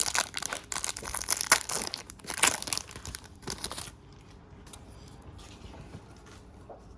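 Crinkling and tearing of a foil trading-card pack wrapper as it is ripped open, busy for about four seconds and then dying down to a few faint rustles.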